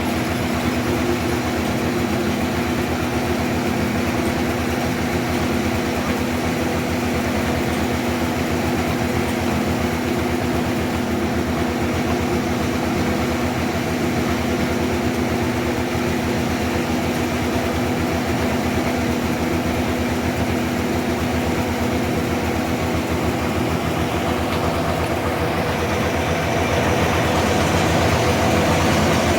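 Sawmill machinery running steadily with a constant mechanical hum, a little louder near the end.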